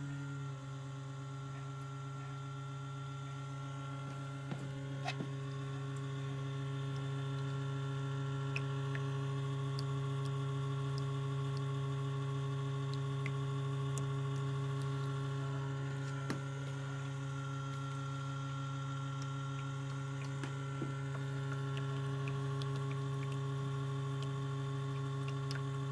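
Crane humidifier giving a steady low electrical buzz with several overtones. It is a fault: the unit still makes mist but no longer blows it out.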